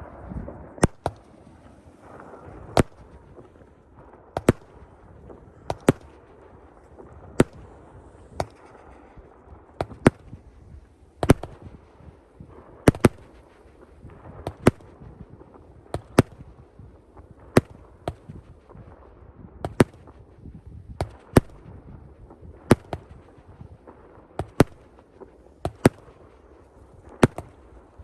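Fireworks going off in a steady string of sharp bangs, roughly one every second, with a low rumble between the reports.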